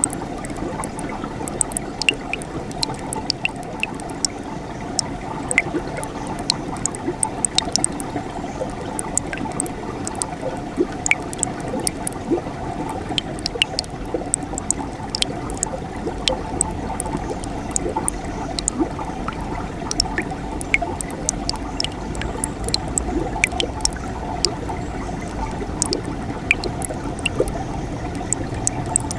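Mountain stream in winter running steadily, a continuous rush of water dotted with many small sharp splashes and drips.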